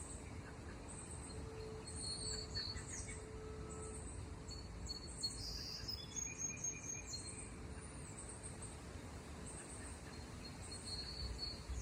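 Outdoor ambience: birds chirping and insects, short high chirps and arching calls repeating over a steady low rumble.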